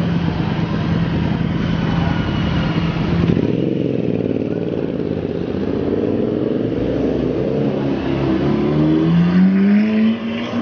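Lamborghini Aventador SV's V12 engine idling with a steady note, then picking up from about three seconds in as the car moves off, and rising strongly in pitch near the end as it accelerates away.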